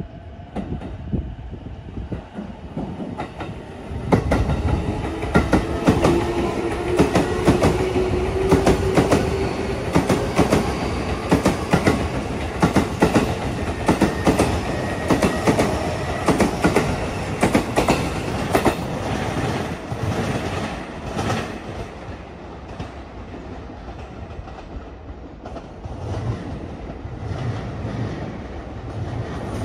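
JR East E233-series electric commuter train running past along the platform, with a fast clickety-clack of its wheels over the rail joints. A whine rises in pitch about five to ten seconds in, and the noise dies down after about twenty seconds.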